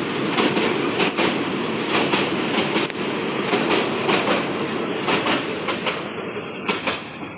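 Freight train of petroleum tank wagons rolling past. The wheels clatter over the rail joints in a steady run of clicks, with brief high-pitched wheel squeals. The sound fades near the end as the train moves away.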